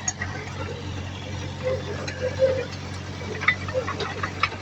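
Heavy earthmoving machine's diesel engine running steadily at a low hum, with several sharp clanks near the end.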